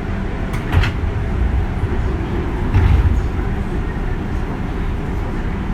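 JR 201 series electric commuter train running, heard from inside the car: a steady low rumble of wheels on rail. Two short louder knocks come through, one just under a second in and one near three seconds.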